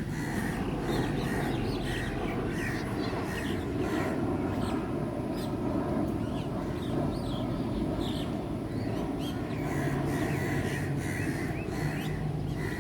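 Several birds chirping with many short, repeated calls over a steady low background rumble.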